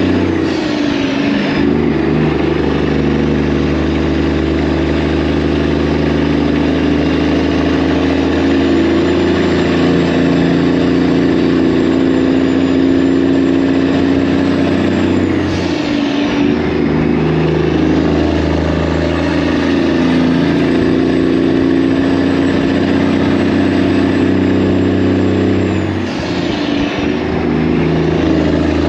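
Semi-truck diesel engine running steadily under load, heard loud and close. The engine note breaks and drops three times, about a second in, about halfway through and near the end, then picks back up each time along with a faint high whine.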